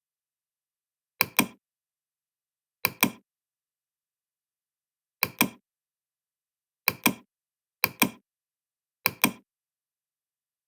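Short sharp double clicks, each a pair of knocks a fraction of a second apart, repeated six times at uneven intervals with dead silence between.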